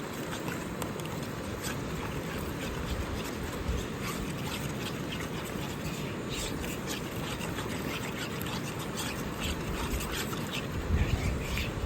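Eggs frying in butter in a pan on a camp stove: a steady sizzle with many small crackles and pops scattered through it.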